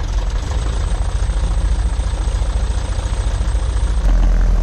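Piper Tri-Pacer's piston engine idling on the ground, heard from inside the cabin; it gets a little louder about four seconds in.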